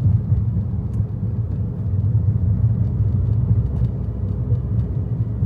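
Steady low rumble of a car in motion: road and engine noise, with faint scattered ticks over it.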